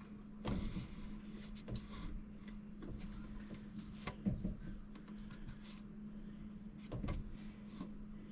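Light handling noises, scattered soft knocks and rubs, as caulk is worked around the pipes at a washer valve box, over a steady low hum.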